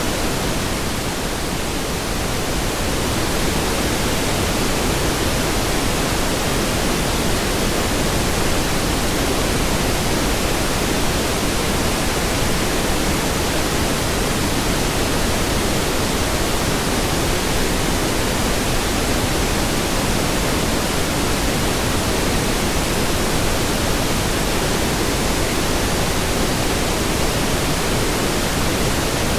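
Steady pink noise: a continuous, even hiss spread across all pitches, weighted toward the low end, with a slight dip in level about a second in.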